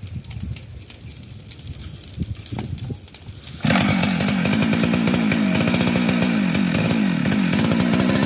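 Chainsaw engine running low and uneven at first, then opened up to full throttle about three and a half seconds in and held loud and steady for about five seconds, the pitch wavering slightly.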